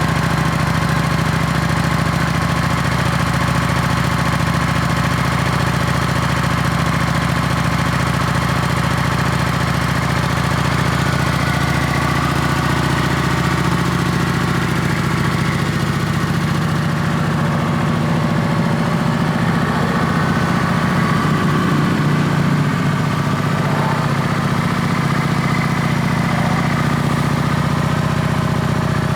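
2019 Kawasaki Vulcan 900 LT's 903 cc V-twin idling steadily through its stock exhaust.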